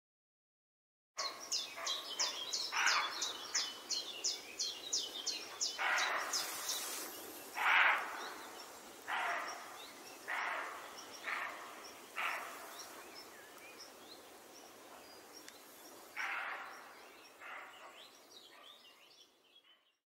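Wild birds calling. Starting about a second in, there is a quick run of high chirps for a few seconds, then a string of short, harsh calls every second or two. It all fades out near the end.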